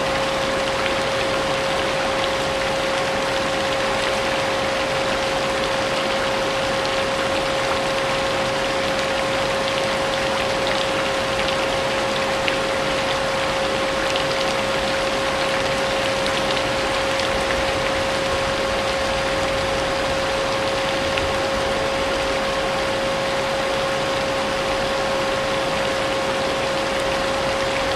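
Vacuum cleaner running steadily with a constant motor whine, mixed with the hiss of falling rain.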